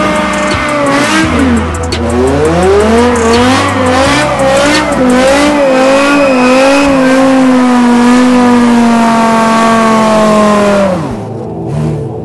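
Performance car sound: a loud pitched tone that wavers up and down, then holds steady and falls away about eleven seconds in.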